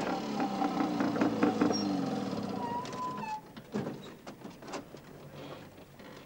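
An old car's engine running, with many clicks and knocks through it and a short higher tone about three seconds in. Loudest for the first three seconds or so, then it dies down.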